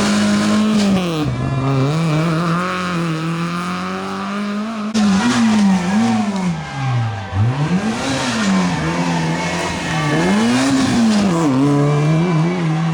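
Rally car engine revving hard, its pitch climbing and dropping again and again as the driver changes gear and lifts and reapplies the throttle.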